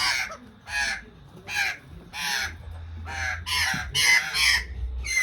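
A bird screeching over and over: about ten harsh calls in quick succession, several falling in pitch.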